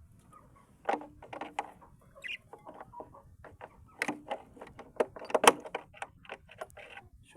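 Birds moving and calling in a cage: an irregular run of short sharp clicks and knocks mixed with brief low calls, busiest about four to six seconds in.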